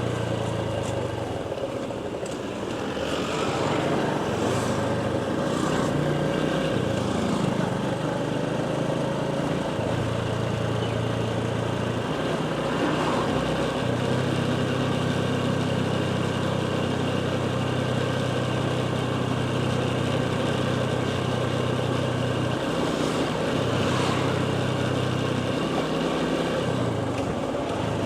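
Motorcycle engine running while riding, its low note shifting up and down in steps several times as the throttle and gears change, over a steady rushing noise.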